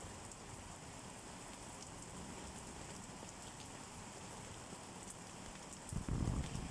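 Steady rain falling on a surface, an even hiss with scattered drop ticks. Near the end comes a brief, louder low rumble.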